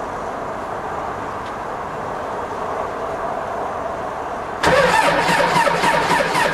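Cummins diesel engine cold-started with no preheat in single-digit cold: it cranks for about four and a half seconds, then catches suddenly and runs loud with a rapid, rough clatter.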